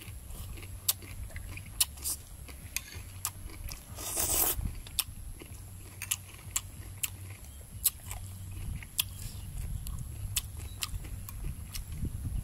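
A mouthful of crunchy shredded green papaya salad being chewed close to the microphone, with many small wet crunches and clicks, and one louder noisy crunch about four seconds in.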